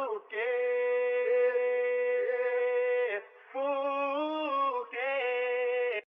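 Long held vocal notes with no beat or bass under them, in three phrases: one note held about three seconds, then two shorter phrases that bend slightly in pitch and end just before the close.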